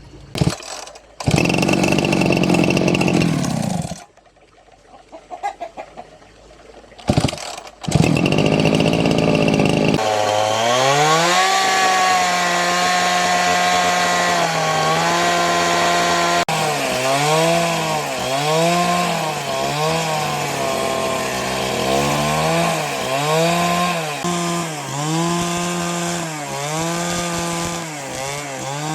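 Two-stroke chainsaw with two loud noisy spells in the first few seconds. About a third of the way in the engine revs up to a steady high note, then its revs repeatedly dip and recover about once a second, as when working through wood.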